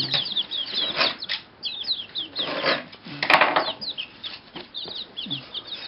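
Young chickens peeping busily, many short, high, falling peeps overlapping, with a few brief bursts of rustling and scuffling as they go after a worm.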